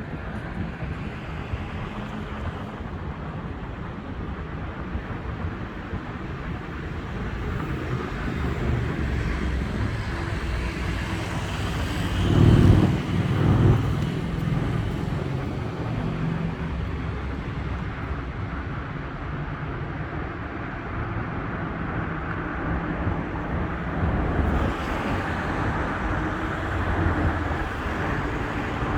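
Steady road traffic noise, with one louder, low vehicle pass about twelve to fourteen seconds in.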